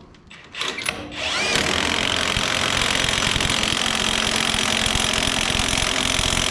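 A handheld power tool spins up with a short rising whine about a second in, then runs steadily, driving in and tightening down a screw set with Loctite. A few light clicks come before it starts.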